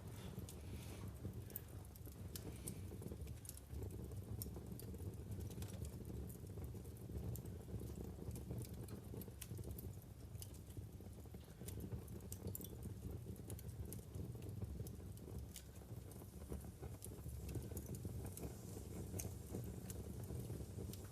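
Wood fire burning in a fireplace: scattered sharp crackles and pops from the burning logs over a steady low rumble of the flames.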